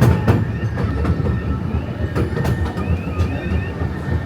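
Small theme-park train running along its track: a steady low rumble with a few sharp clicks of the wheels over rail joints, coming in pairs near the start and again a little after two seconds in.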